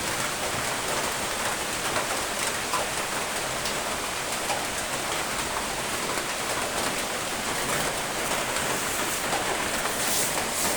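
Steady rain falling on a surface, a constant dense hiss flecked with individual drop ticks.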